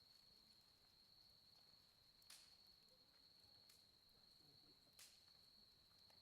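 Faint campfire: burning firewood gives three sharp pops over a low crackle, about a second and a half apart. Behind it, a steady high insect trill, like an autumn cricket, runs on unbroken.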